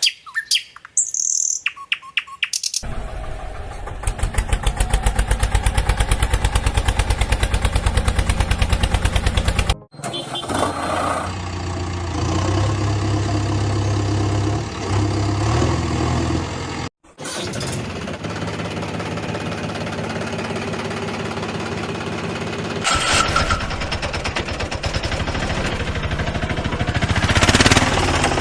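Vehicle engine sounds in edited segments: a few clicks and chirps at first, then an engine starting and running with a fast, even beat. After an abrupt cut the engine runs with a steadier low hum, and after a second cut it runs again, growing louder near the end.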